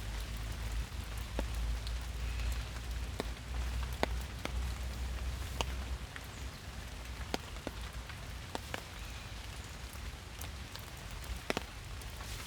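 Rain falling in a forest: an even hiss with scattered sharp taps of single drops landing close by. A low rumble runs underneath and drops away about six seconds in.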